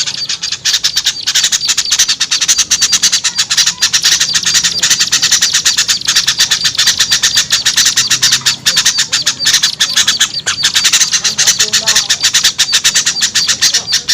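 Bird-lure recording of many small songbirds calling at once in a dense, noisy, rapid chattering chorus, a mix used to draw wary small birds down to a trap.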